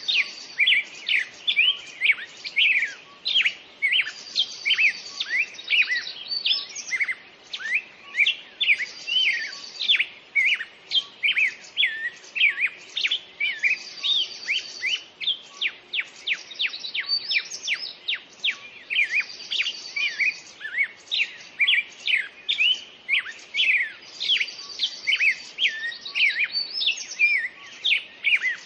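Many songbirds chirping and singing at once in a dense, overlapping chorus of quick chirps and whistled notes. A short, high buzzy trill comes back every four to five seconds.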